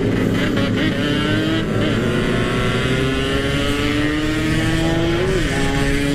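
Yamaha RX-King's 135 cc two-stroke single-cylinder engine running hard at high speed through an aftermarket 'standart belek' exhaust. Its pitch climbs slowly as it pulls, rises briefly and dips a little after five seconds, then holds steady, over a steady rush of wind.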